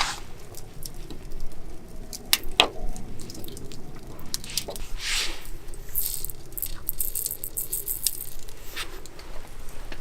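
Scattered clicks and taps of objects being handled, with a brief rustle about five seconds in and a run of rapid, high-pitched clicking from about six to eight seconds.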